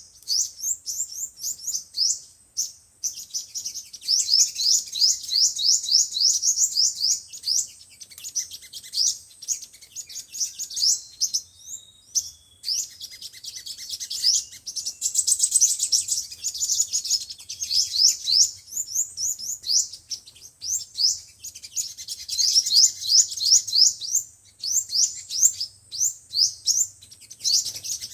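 Sunbird song: fast runs of high, thin chipping notes that merge into rapid trills, with short breaks between the runs.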